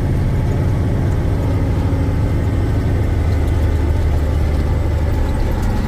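Diesel engine of a 1984 Peterbilt 359 log truck running steadily under way, heard from inside the cab as an even low drone.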